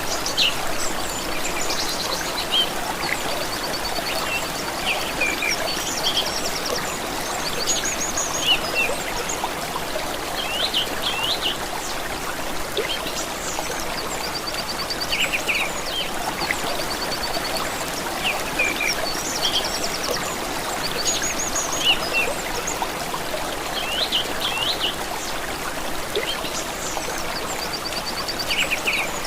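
A stream trickling steadily, with several birds singing over it throughout: short chirps, quick rapid trills and brief sweeping whistles.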